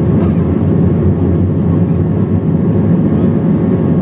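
Airbus A321 cabin noise: the steady low rumble of the engines and airflow heard from inside the passenger cabin, with a few faint steady tones.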